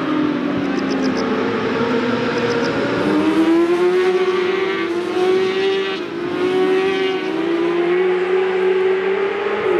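J-GP2 racing motorcycles' 600cc four-stroke engines running at high revs. Their pitch climbs and drops back several times as the bikes accelerate and shift.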